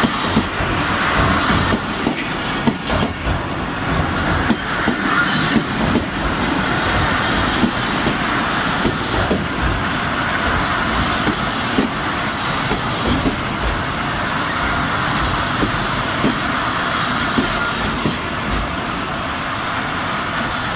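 Pakistan Railways passenger coaches rolling past close by: a steady loud rumble of steel wheels on the rails, with irregular clacks as the wheels run over the rail joints.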